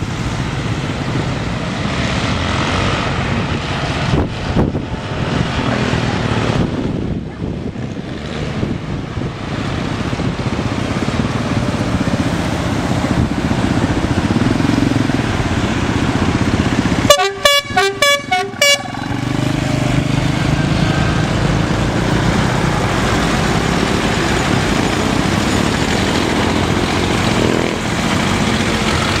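Tractor engines running steadily. About seventeen seconds in, a horn gives a rapid string of about six short toots lasting under two seconds.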